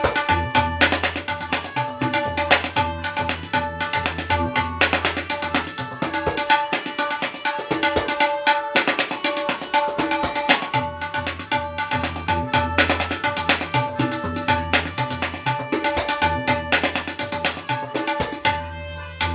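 Tabla solo in teentaal: rapid, dense strokes on the dayan and the bayan. The bayan's bass strokes drop out for a few seconds midway, leaving only the treble strokes.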